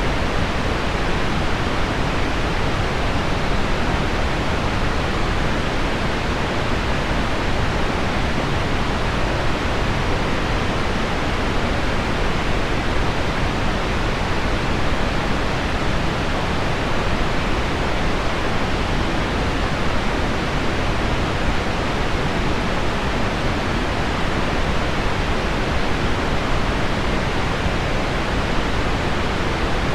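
Heavy rain on window glass blended with pink noise: an even, unbroken hiss that is heaviest in the low and middle range.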